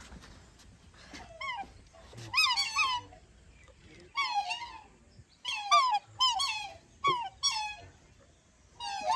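An animal giving a series of short, high calls that bend up and down in pitch, about ten of them in small groups, resembling a dog's whining.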